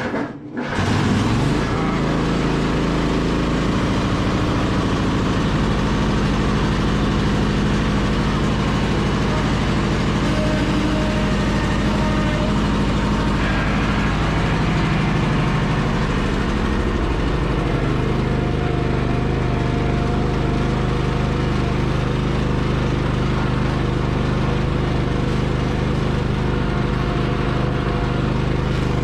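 Cub Cadet riding lawn mower engine catching after a brief crank, then running steadily. It is starting after sitting unused for a few months. Its note shifts slightly about six seconds in and again around eighteen seconds.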